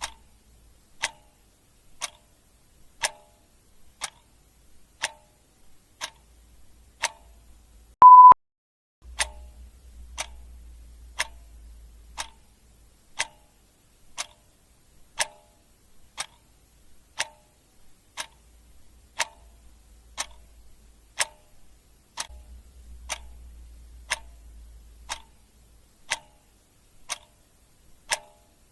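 Clock ticking steadily, one sharp tick a second. About eight seconds in, a single short high beep sounds, louder than the ticks.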